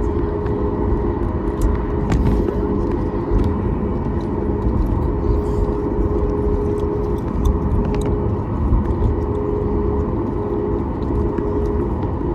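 Cabin noise inside a Boeing 737 MAX 9: a steady rumble from its CFM LEAP-1B engines and airflow, with a steady hum tone and a few light rattles.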